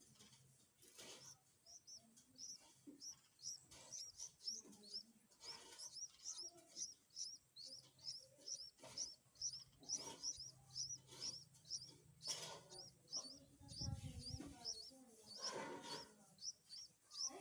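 Bulbul chick begging: short, high chirps repeated steadily about three times a second while it is being fed.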